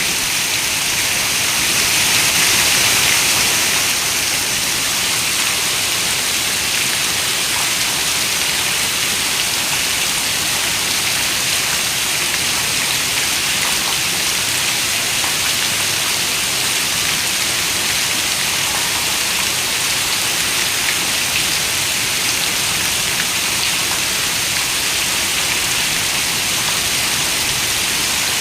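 Steady rain falling on a window: a dense, even hiss, strongest in the high range, that swells slightly about two to three seconds in.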